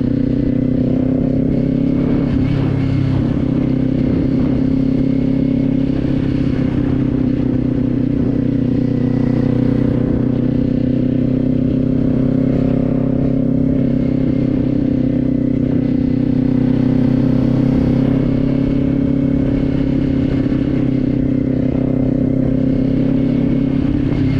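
Kawasaki Z400's parallel-twin engine running at a steady cruising pace while the motorcycle is ridden, its note holding nearly constant in pitch with only gentle drifts.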